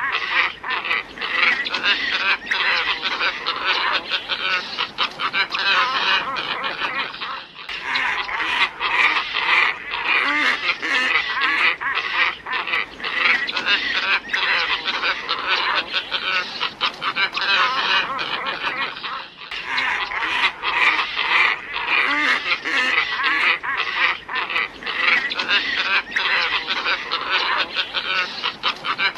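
A flock of glossy ibises calling: many rapid, hoarse, overlapping calls in a dense continuous chorus. The recording breaks and restarts about 8 and 20 seconds in, as a looped lure recording does.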